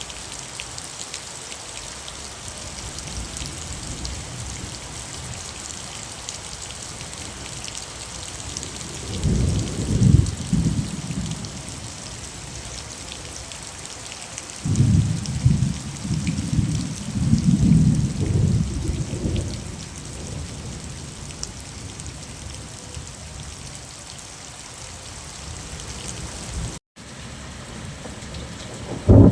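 Steady rain falling, with low rolls of thunder about nine seconds in and again for several seconds from about fifteen seconds in.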